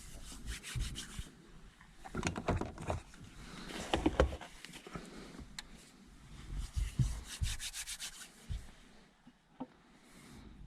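A knife scraping across crisp toasted bread, spreading it in several runs of quick strokes with short pauses between them.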